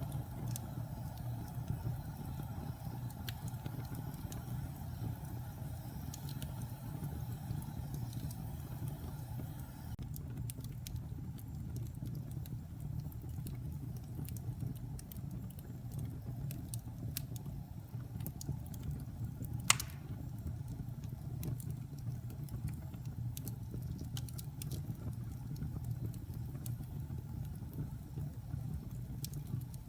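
Wood fire burning in a fireplace: a steady low rumble of flame with scattered small crackles and one sharp, loud pop about two-thirds of the way through.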